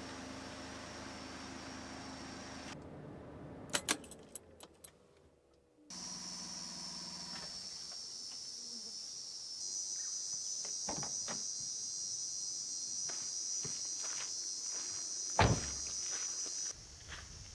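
A Suzuki Super Carry kei truck's engine runs steadily, then stops with a few clicks about four seconds in. Then steady high-pitched insect chirring, louder from about ten seconds in, with scattered small clicks and one sharp thump near the end.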